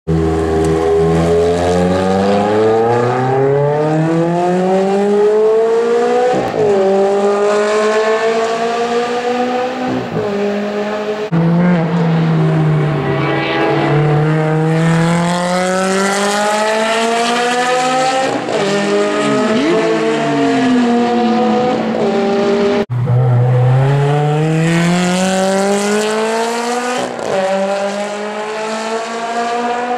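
Ferrari 360 Challenge Stradale's 3.6-litre flat-plane V8 under hard acceleration, its pitch climbing through the revs again and again with short drops at each gear change. The sound jumps abruptly twice where one pass gives way to the next.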